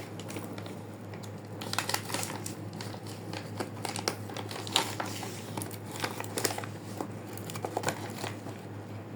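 Irregular crinkling and clicking handling noises over a steady low hum.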